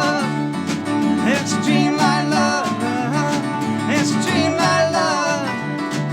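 Live band playing a song led by acoustic guitar, with a wavering sung melody over steady low notes.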